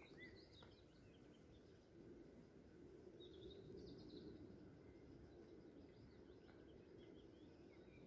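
Faint wild birds chirping over a low, steady background hush: a few short chirps at the start, a longer twittering phrase in the middle, and a few more chirps near the end.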